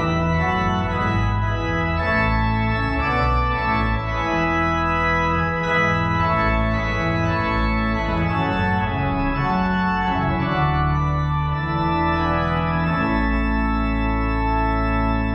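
Organ music: sustained chords with a deep bass, changing every second or two, in the slow manner of a hymn or voluntary.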